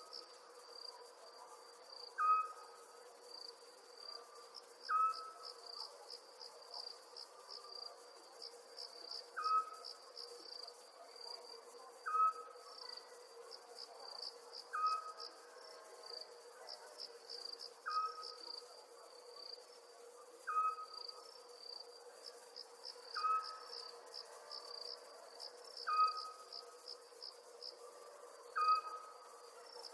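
Night ambience of crickets chirping in fast pulsed trills, with a short piping call from a night animal repeated about every two and a half to three seconds, the loudest sound, over a faint steady low hum.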